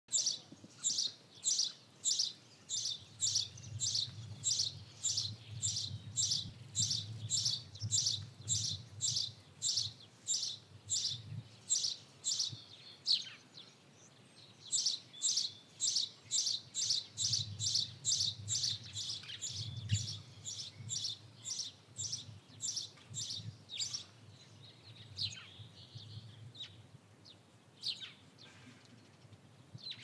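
A single small bird chirping, repeating a short, high call at about two a second in long even runs, with a brief break about halfway. Near the end the calls turn sparser and more varied.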